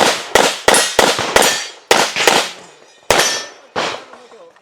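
A string of about nine handgun shots on a USPSA stage, fired in quick pairs and singles with short pauses between them, each with a sharp crack and ringing echo. The firing stops about four seconds in.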